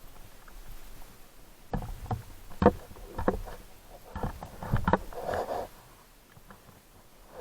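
Irregular knocks and thumps with short rushes of noise, picked up by the action camera's microphone on an off-road motorcycle ride over rough ground.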